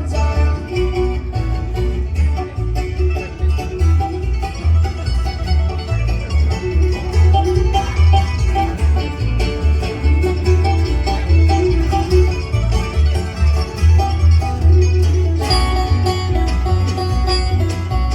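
Country-style band music with no singing: an instrumental passage with plucked strings over a steady bass beat, the arrangement shifting about fifteen seconds in.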